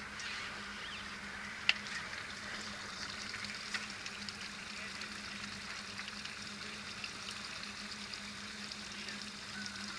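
A motor boat under way: a steady low engine hum under a crackling hiss of water along the hull, with one sharp click a little under two seconds in.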